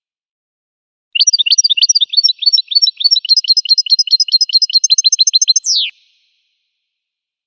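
A finch singing one song phrase: a quick string of short, high, down-slurred notes at about six a second, ending in a long falling whistle. Silence comes before and after the phrase.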